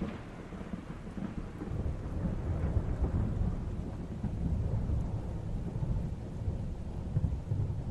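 Thunder rumbling low and rolling, swelling about a second and a half in and going on in uneven surges, with a steady hiss of rain underneath.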